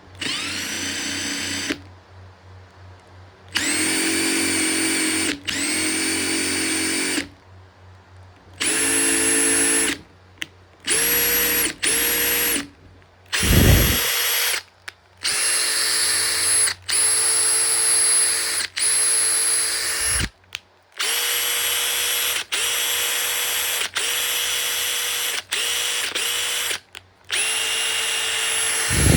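Makita TP141D cordless impact driver run free with no load in repeated short trigger pulls: more than a dozen bursts of motor whine, each spinning up quickly to a steady pitch for one to two seconds and then stopping.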